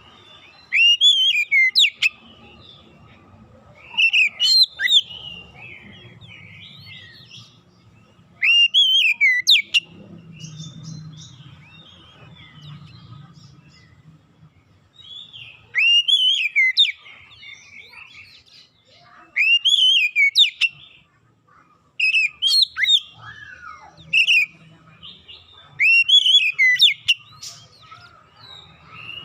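Oriental magpie-robin (kacer) singing: about eight short, loud phrases of sweeping, rising-and-falling whistles, a few seconds apart. A faint steady hum lies between them.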